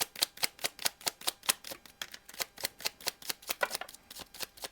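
Rapid, evenly spaced clicking, about five clicks a second, from a deck of tarot cards being handled and shuffled, growing fainter and less regular near the end.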